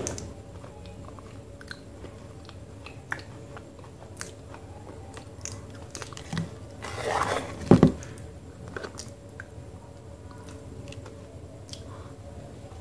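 Close-up eating sounds of a thick multani mitti (Fuller's earth clay) paste: scattered wet mouth clicks and chewing, with a louder stretch of spoon scooping and a bite about seven to eight seconds in.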